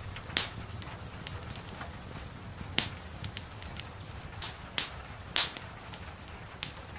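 Wood fire crackling in a fireplace: irregular sharp pops and snaps, a couple of them louder, over a steady low rumble and soft hiss of gentle rain.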